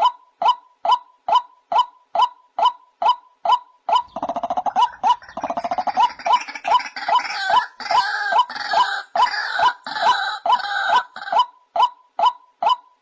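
White-breasted waterhen calling: a monotonous series of short hooked notes about two a second. From about four seconds in, a second bird joins with harsher, overlapping croaking calls and a rapid stutter, then drops out near the end and the steady note series carries on alone.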